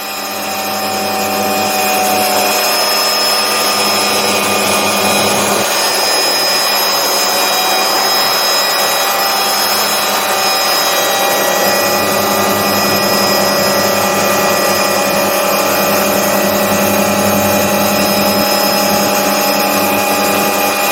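MD 500D helicopter running, its Allison 250 turboshaft giving a steady high whine over the rotor. It grows louder over the first two seconds, then holds steady.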